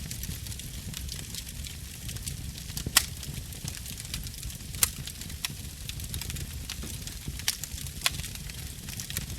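Fire burning in a fireplace: a steady low rumble of flames with scattered sharp crackles and pops, the loudest about three seconds and about five seconds in, and a few more near the end.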